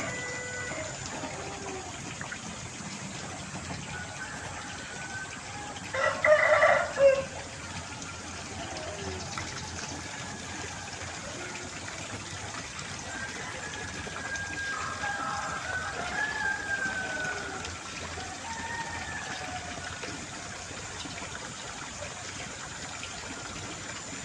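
A rooster crowing once, loud and close, about six seconds in, with fainter drawn-out calls farther off later on over a steady countryside background hiss.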